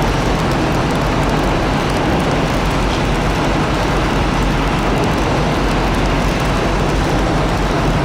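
Steady, loud rushing noise with a low rumble: heavy wind and rain.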